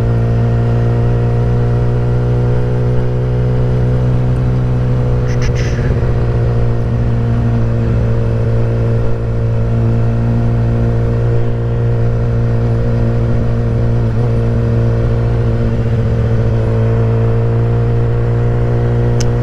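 2016 Kawasaki ZX-10R's inline-four engine running through a Graves race exhaust at a steady engine speed, its pitch holding even with no revving.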